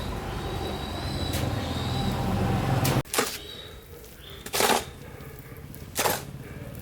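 An engine running steadily, cut off abruptly about three seconds in, then three sharp knocks about a second and a half apart.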